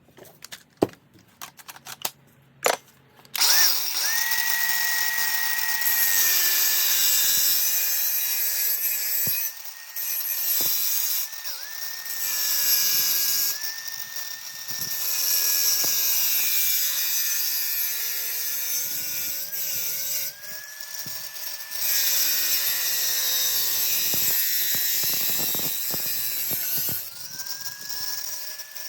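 Battery-powered hand power tool cutting through a length of exhaust pipe, after a few handling clicks. The motor starts about three seconds in and runs in several stretches with short breaks, its whine sagging and wavering in pitch under the load of the cut, with a harsh hiss of metal being cut over it.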